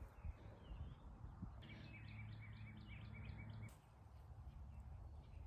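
Faint outdoor background with a small bird singing a short run of repeated chirps, about four a second for roughly two seconds, in the middle.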